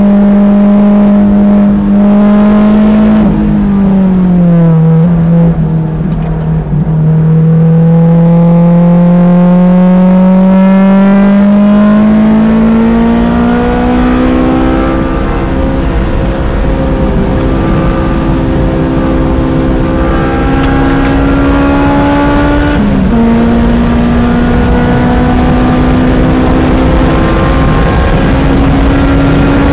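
Race car engine at full throttle on a track lap. The note drops as the driver lifts about four seconds in, then climbs steadily as the car accelerates, breaks briefly about 23 seconds in, and keeps rising toward the end.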